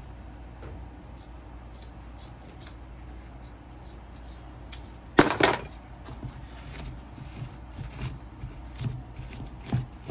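Light clicks and taps of tools and small parts being handled on a workbench, with one brief louder clatter about five seconds in and a few more knocks near the end, over a low steady hum.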